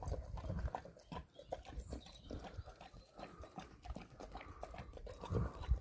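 A dog moving about close by, making irregular small clicks and low thumps.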